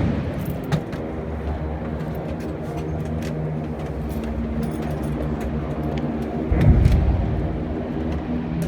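An engine droning steadily, with scattered light knocks and clicks and a louder low rumble swelling for about half a second near six and a half seconds in.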